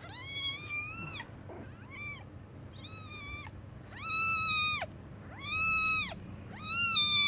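British Shorthair kitten mewing about six times in a row, high-pitched calls that grow louder and longer toward the end. These are the distress calls of a nursing kitten lifted away from its mother.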